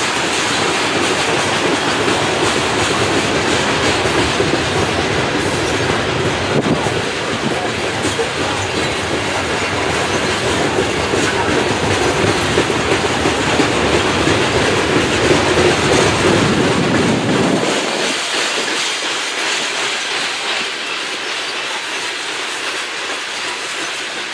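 Norfolk Southern coal hopper cars rolling past on the rails: a steady loud rumble of steel wheels on track, whose deep low end falls away about three quarters of the way through, leaving a lighter rolling rush.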